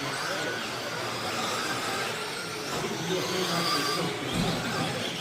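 Electric motors of several radio-controlled cars whining, rising and falling in pitch as they speed up and slow down around a track.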